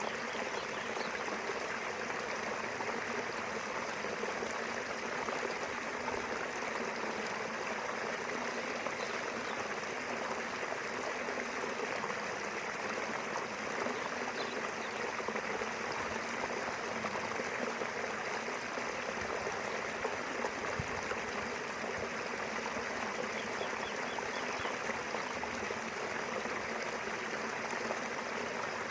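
A small river running steadily over its bed, an even, unbroken rush of water.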